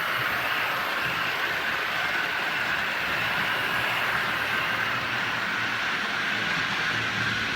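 OO gauge model train running along the track: a steady whirr of motor and wheels.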